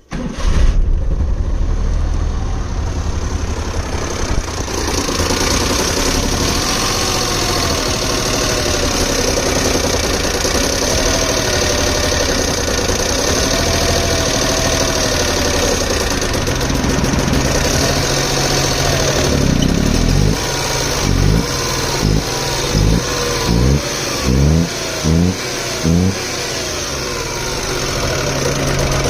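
Maruti 800's three-cylinder carburetted engine starting about half a second in and running, its freshly cleaned carburettor letting it keep going instead of stalling. The revs rise and fall several times, then it settles to a steady idle with about six quick throttle blips near the end.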